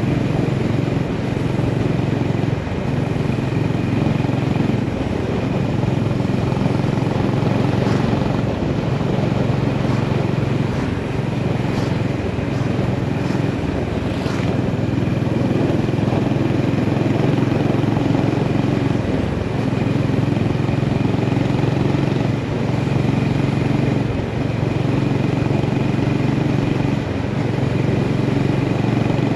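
Honda GB350S's air-cooled single-cylinder engine running steadily as the motorcycle is ridden, its note rising and falling slightly, over a steady rush of wind and road noise.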